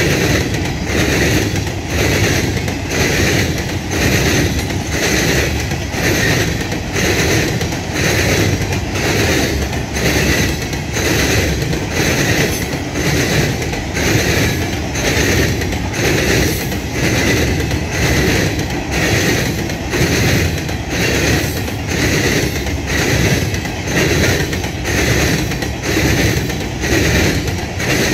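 Empty Herzog hopper cars of a freight train rolling past at close range, their wheels clicking over the track in an even, repeating rhythm.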